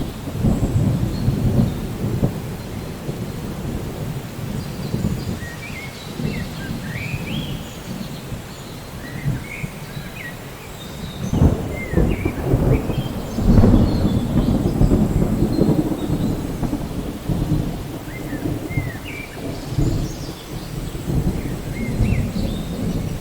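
Rainstorm with continuous rain and rolling thunder rumbling low, swelling loudest about halfway through. Scattered short high chirps sound over it.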